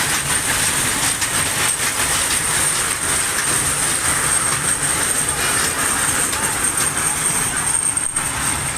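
A night-market amusement train ride running, heard from on board: a steady rattling rumble with wheels clicking and clacking, and a steady high whine over it.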